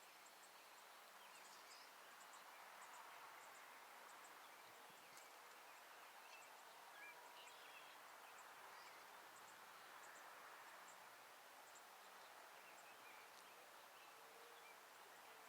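Faint outdoor ambience: a steady low hiss with scattered, faint short bird chirps.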